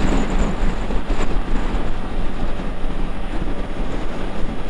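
Honda XRE 300 Adventure's single-cylinder engine running steadily while riding on the highway, under loud wind noise rushing over the microphone in a strong crosswind.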